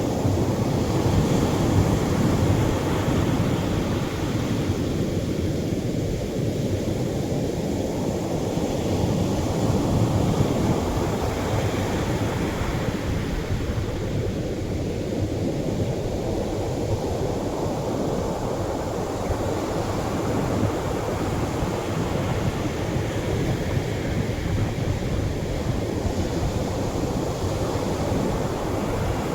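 Atlantic surf washing gently onto the shore: a steady, low rush of breaking water that swells and eases in slow surges, a little louder in the first few seconds and again around ten seconds in.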